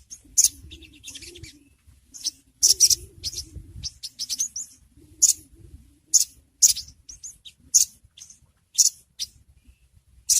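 Little spiderhunter (sogok ontong) calling: sharp, high, short chirps repeated irregularly, often a second or less apart, some dropping quickly in pitch.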